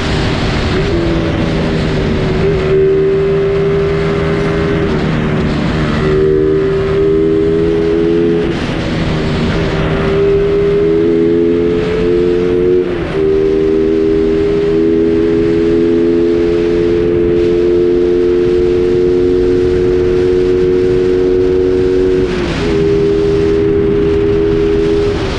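Suzuki Raider 150 Fi's single-cylinder engine running at steady cruising revs under way, its pitch stepping up or down a few times, over a steady rush of wind and road noise.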